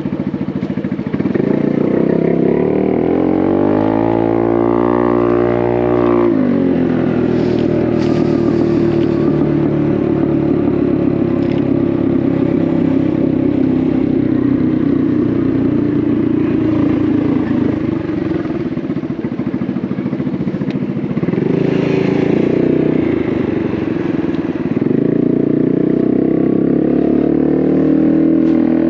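Honda Navi's small single-cylinder engine through an aftermarket Vance & Hines exhaust, revving up with a rising pitch a few seconds in, then dropping back and cruising steadily. It picks up again near the end.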